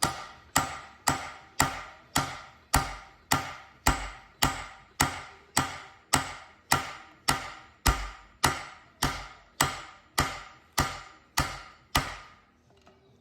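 Steady hammer blows on steel, about two a second with a short metallic ring after each, driving a large gearbox nut loose; the blows stop about twelve seconds in.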